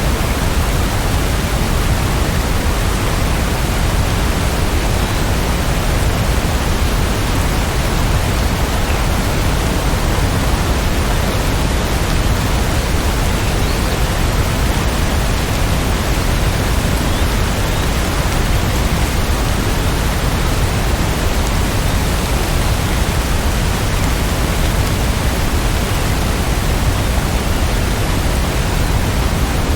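Heavy rain falling as a steady, dense hiss with no separate drops or thunder standing out.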